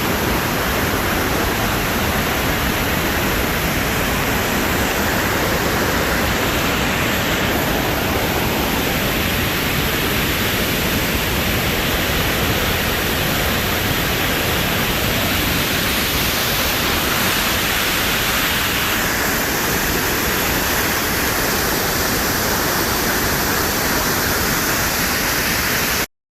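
Waterfall roaring steadily, a loud, even rush of falling water that cuts off suddenly near the end.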